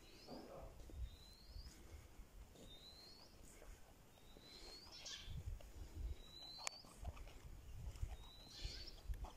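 A bird repeating a short rising chirp every second and a half to two seconds, over low thumps and rumble, with one sharp click about two-thirds of the way through.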